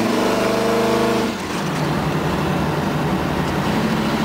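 Ford 428 V8 in a 1971 Ford F-100 revved once, its pitch rising for just over a second, then dropping sharply back to a steady idle.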